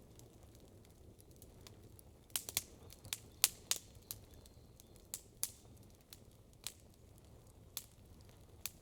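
Wood crackling in a campfire: irregular sharp pops and snaps, a quick run of them a couple of seconds in and sparser ones after, over a faint steady low rumble.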